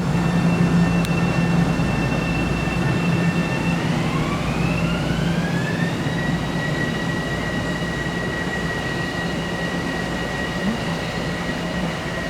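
Train at the platform with its electric traction motors whining: several steady high tones over a low hum, gliding up in pitch about four seconds in and then holding at the higher pitch.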